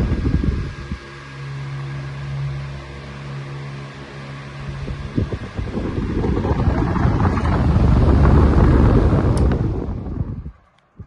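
Arge Twister 50 cm electric fan running, its airflow buffeting the microphone in heavy gusts, with the motor's steady hum showing through in the middle when the air rush eases. The sound cuts off suddenly near the end.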